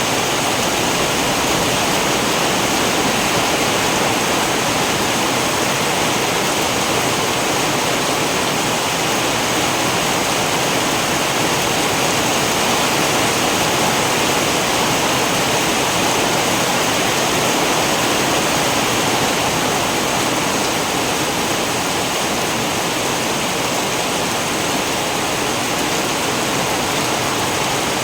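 Steady heavy rain, an even hiss without breaks or thunderclaps.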